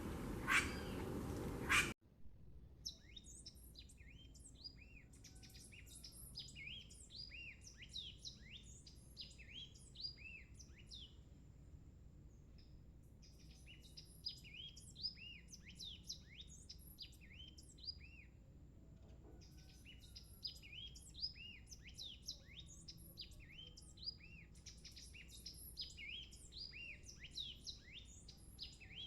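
Birds chirping: a dense chatter of many short, quick, falling notes, coming in bouts with short pauses. A louder rushing noise in the first couple of seconds cuts off abruptly.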